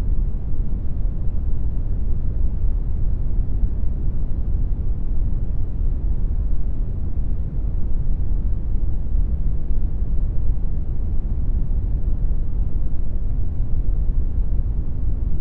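Synthetic brown noise: a steady, deep rumbling hiss, strongest in the bass and thinning toward the treble, with no change in level.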